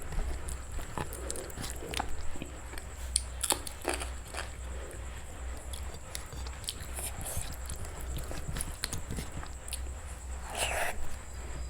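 Close-miked eating sounds: biting and chewing, with scattered crunches and wet mouth clicks over a steady low hum.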